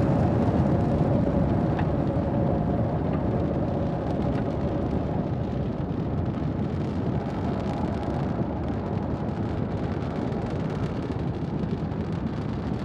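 Falcon 9 first stage's nine Merlin engines in ascent: a dense, crackling rocket rumble that slowly fades as the rocket climbs away.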